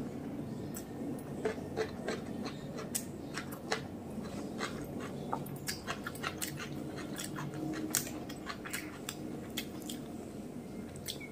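Close-up chewing of mutton biryani, with irregular wet mouth clicks and lip smacks over a steady low hum.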